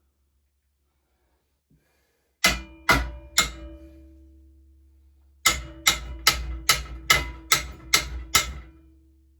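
Hammer blows on metal: three strikes, a pause, then eight more in a steady rhythm of about two and a half a second, each leaving a ringing metallic note. Typical of straightening a bent steel part by hammering.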